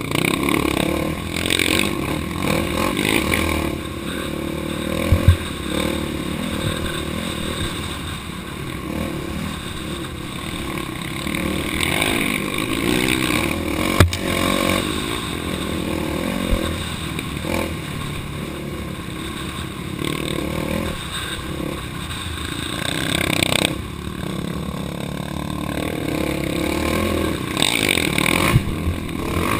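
Off-road vehicle engine running under riding load on a dirt trail, the revs rising and falling. A few sharp knocks cut through, about five seconds in, near the middle and near the end.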